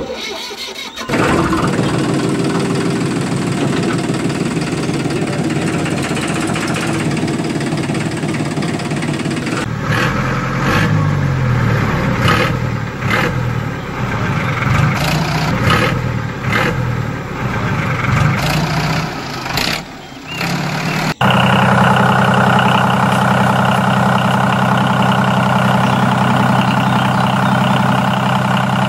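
A small engine running, uneven for a while in the middle, then steady after a sudden cut about two thirds of the way through.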